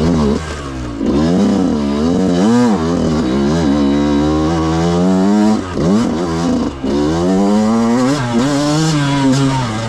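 Dirt bike engine revving, its pitch climbing and dropping again and again as the throttle is worked and gears change, with a brief drop about two-thirds of the way through.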